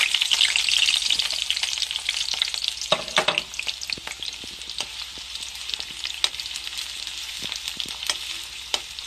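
Sliced onion and chillies dropped into hot oil in a kadai, sizzling loudly at first and settling into steady frying. From about halfway, a steel spoon stirs and taps against the pan.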